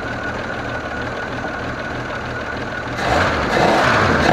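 1985 AMC Eagle's carbureted 4.2-litre inline-six idling, freshly restarted on new spark plugs after a Seafoam cleaning. About three seconds in it is revved by hand at the carburetor and grows louder.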